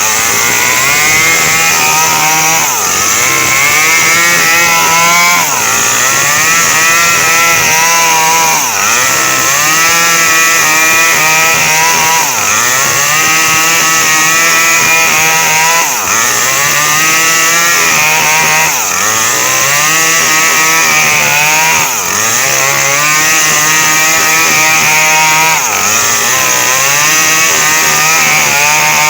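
Small Stihl chainsaw cutting coconut palm wood, its engine pitch sagging under load and climbing back about every three seconds.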